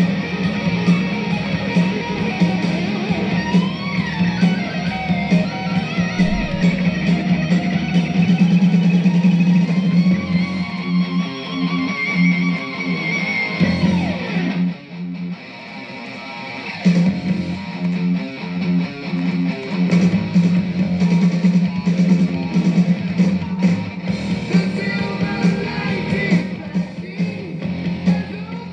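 Heavy metal instrumental break: a lead electric guitar plays bending, gliding notes over distorted rhythm guitar, bass and drums. The band drops back briefly about halfway through.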